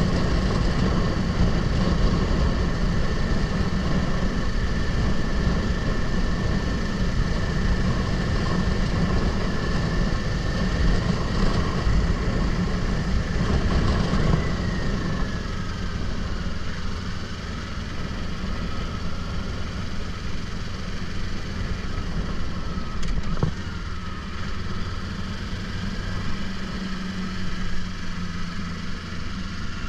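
Kawasaki Ninja 500 parallel-twin engine running under way, its pitch sliding down a couple of times as the throttle comes off, under heavy low wind rumble on the helmet-mounted microphone.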